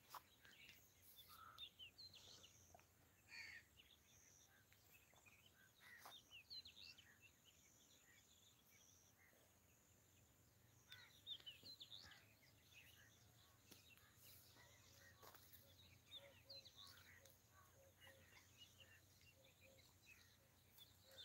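Near silence outdoors, with faint, scattered bird chirps now and then.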